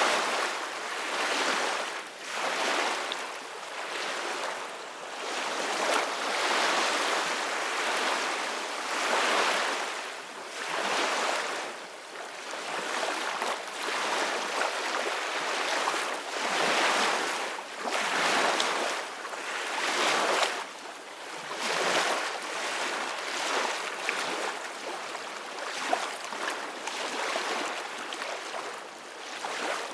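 Ocean waves washing in: a continuous rush of surf that swells and ebbs every second or two.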